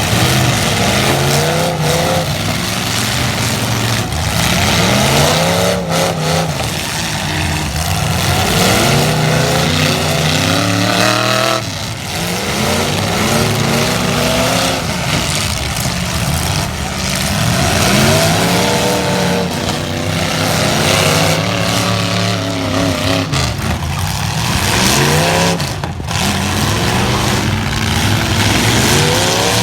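Several light trucks' engines revving hard in a demolition derby, their pitch climbing and dropping again and again as they accelerate and back off, over a constant din. A few sharp knocks of impact cut through.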